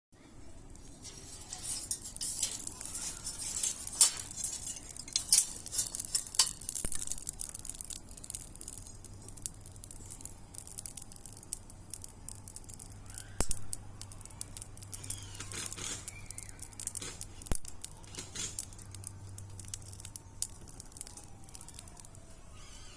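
Wood bonfire crackling and popping irregularly, with the loudest snaps between about four and six seconds in. A faint low hum joins about nine seconds in.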